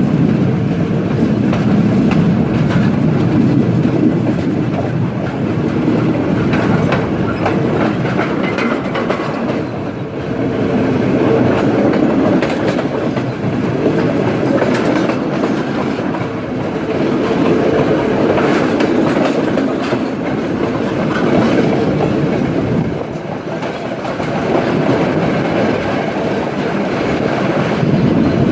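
Udaya Devi express train running along the line, with a steady rolling rumble and the repeated clatter of its wheels over rail joints.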